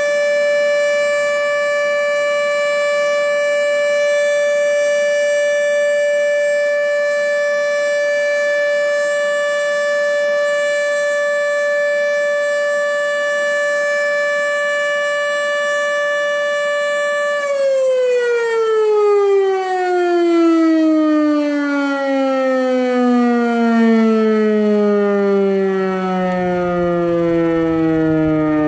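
OM-120 outdoor warning siren sounding a steady tone, then cut off about two thirds of the way through and winding down in a long, falling pitch as its rotor slows.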